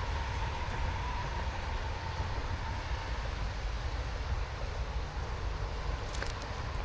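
Approaching Metra commuter train: a steady low rumble with a faint thin tone over it and a brief sharp clatter about six seconds in.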